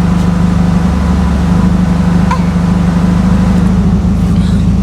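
Car engine idling steadily, with an even low pulsing.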